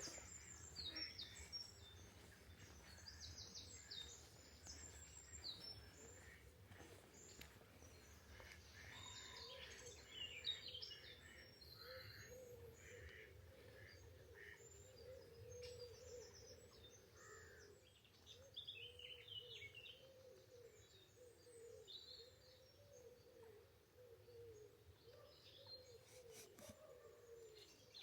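Faint birdsong: several small songbirds chirping and trilling, with a faint low wavering hum underneath from about a third of the way in.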